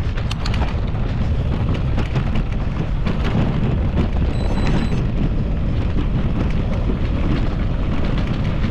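Wind rumbling on the microphone of a mountain bike rider in motion, with scattered clicks and rattles from the bike over the trail.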